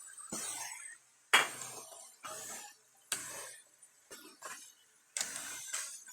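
Small hand tools of a goldsmith's gold chain repair clinking and tapping: a string of sharp metallic strikes, roughly one a second, the loudest about a second in.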